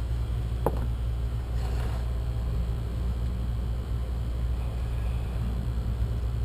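Steady low rumble from running machinery, with one short click just under a second in.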